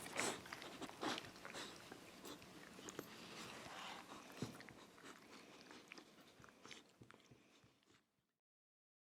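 Faint scattered clicks and rustles of a dog chewing, thinning out until the sound cuts to silence about eight seconds in.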